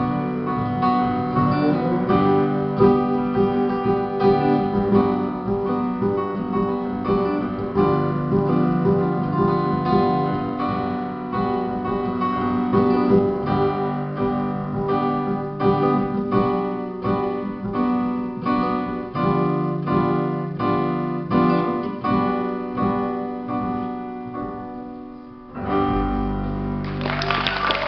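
Live acoustic guitar strumming an instrumental outro with rhythmic chords and no singing. Near the end the playing stops and applause starts.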